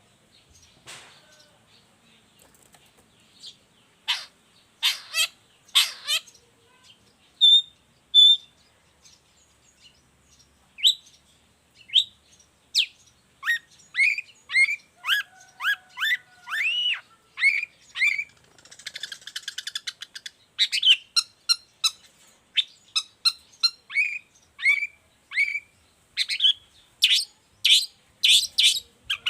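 Long-tailed shrike (cendet) in full song: a fast run of sharp chirps and short whistled notes, some sweeping up and down in pitch, with a brief harsh, buzzy stretch about two-thirds of the way through.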